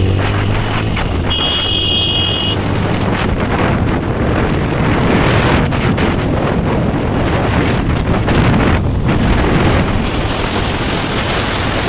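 Wind rushing over the microphone of a motorcycle ridden at speed, with the engine's low hum underneath that fades after the first couple of seconds. A brief steady high tone sounds about a second and a half in.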